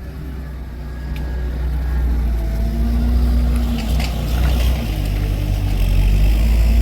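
Engine of a heavy work vehicle running with a steady low rumble that grows a little louder, with a few light clicks.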